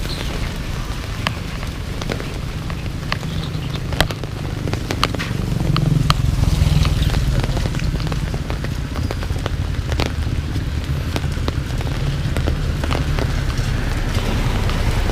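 Steady rain, with many drops ticking sharply close by, over a low rumble that swells about six seconds in.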